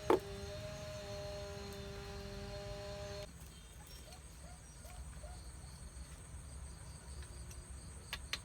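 Insects, typical of crickets, keeping up one steady high-pitched note from about a third of the way in. Before that there is a steady low hum, and there is a sharp click at the very start.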